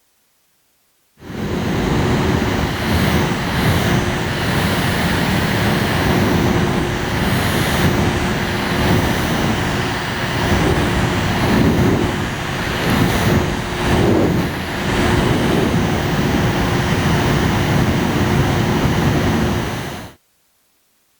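Mini air conditioner's fan running, a loud rush of air with a steady hum, starting about a second in and cutting off abruptly near the end.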